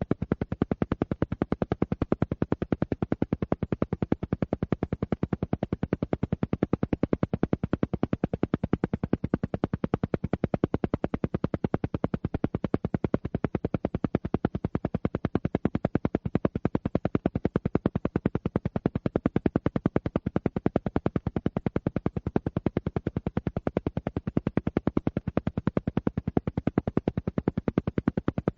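Alpha-wave brainwave entrainment track: a steady train of rapid, evenly spaced pulses, many a second, running on without change.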